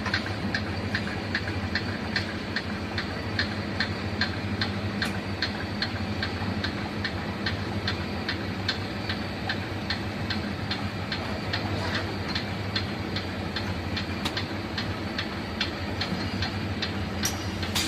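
A 19-litre water-gallon washing machine with two nozzles running: a steady motor hum under a hiss, with a regular tick about three times a second.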